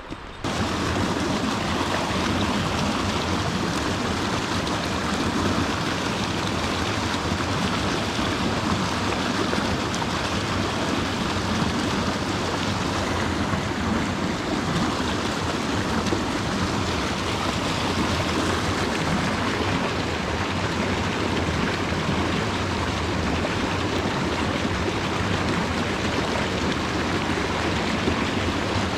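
Mountain stream water rushing steadily, an even hiss that starts abruptly just after the beginning and holds constant.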